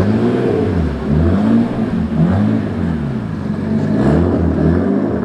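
A car engine revved repeatedly in quick blips, its pitch rising and falling about once a second.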